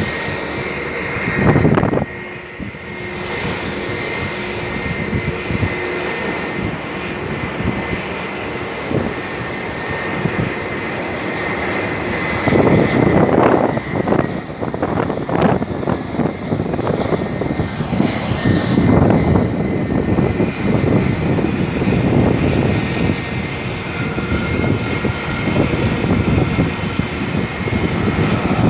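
Fixed-wing aircraft engines running, a steady roar with a thin steady high whine, growing louder about halfway through with uneven rumbling surges.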